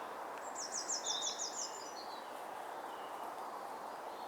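A small songbird singing a quick run of about eight high, thin notes over a steady outdoor background hiss.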